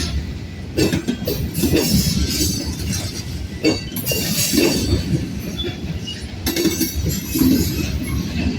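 Freight train rolling past, wheels knocking irregularly over rail joints and squealing faintly against the rails over a low rumble.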